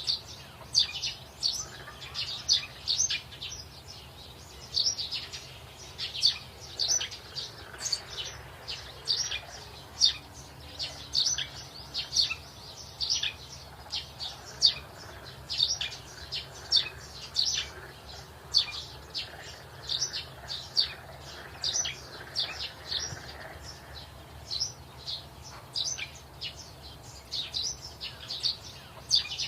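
Birds chirping: many short, high chirps repeated a few times a second without a break.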